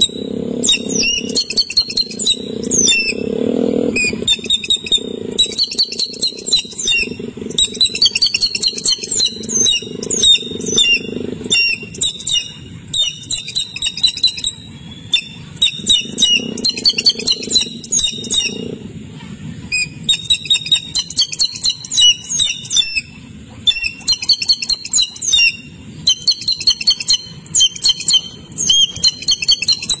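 Small birds chirping in rapid, high-pitched bursts of a second or two, with short gaps between bursts. A low hum sits underneath for about the first half.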